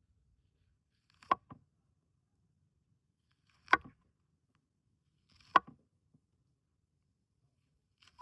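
Four sharp chopping strikes about two seconds apart, each followed by a lighter tap.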